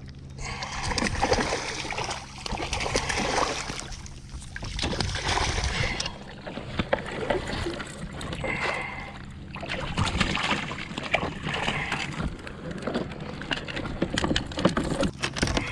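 Kayak paddle strokes: splashing water swells up and falls away about every two seconds.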